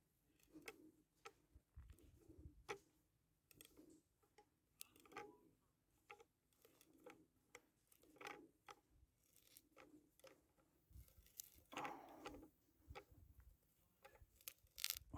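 Faint, irregular clicks and light knocks, like small objects being handled, with a longer rustle about twelve seconds in and the sharpest clicks near the end.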